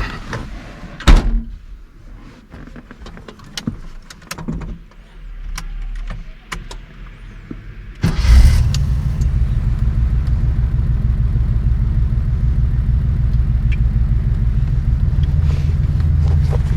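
A car door shuts with a loud thump about a second in, followed by small clicks and handling noises in the cabin. About eight seconds in, the Datsun 240Z's 2.8-litre L28 inline-six fires up and settles into a loud, steady, pulsing idle.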